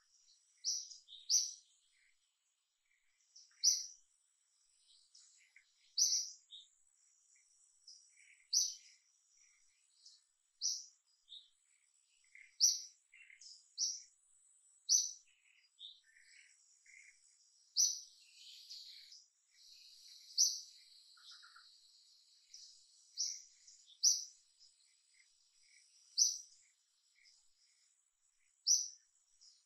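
A bird chirping: short, sharp high notes repeated every second or two, over a faint steady high-pitched hum that fills out for several seconds past the middle.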